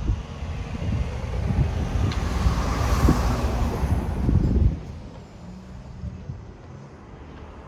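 A vehicle passing close by, its noise swelling to a peak and then fading, over wind rumble on the microphone. The rumble drops off abruptly about five seconds in, leaving a quieter steady road noise.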